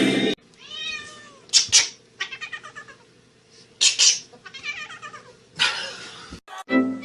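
A domestic cat meowing and yowling: a drawn-out bending meow, then a string of calls broken by several short, harsh, noisy bursts.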